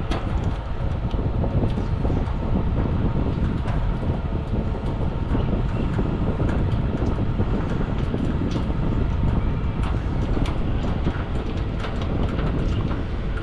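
Steady low rumble of blowing air on the microphone, with scattered light clicks and taps of hand work with a nut driver.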